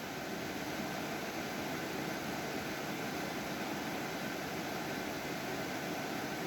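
Cooling fans and water pumps of a DIY Peltier (thermoelectric) air conditioner running, a steady even rush of fan noise with a faint steady high tone.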